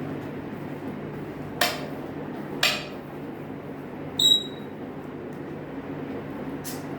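African grey parrot making two sharp clicks, then a single short, high whistle-like note about four seconds in, over a steady low room hum.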